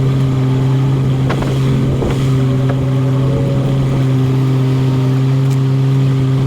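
A steady motor drone held at one constant pitch throughout, with a couple of faint knocks about one and two seconds in.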